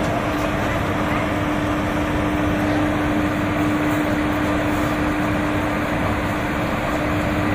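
Steady hum of a standing passenger train with an electric locomotive at its head, with one constant low tone running through it.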